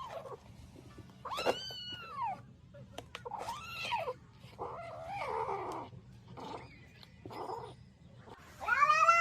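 Domestic cat meowing repeatedly, a series of drawn-out calls that rise and fall in pitch, the loudest one starting near the end.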